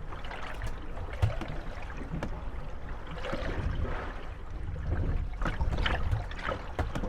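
Moored wooden gondolas rocking on small waves: water slapping and sloshing against the hulls, with scattered knocks and creaks as the boats rub and bump together.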